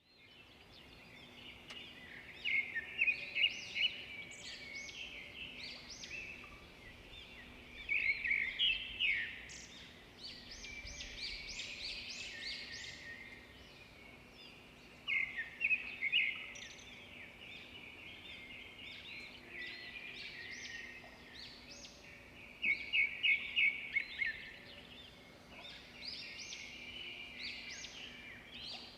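Songbirds singing and chirping together, a steady chatter broken every few seconds by louder bursts of rapid, repeated trilling notes.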